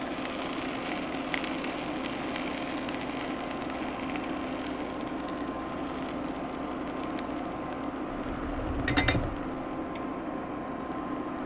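Pancake batter and vegetables sizzling quietly and steadily in an oiled skillet over a faint steady kitchen hum. About nine seconds in, the plastic batter container knocks and rattles briefly against the pan.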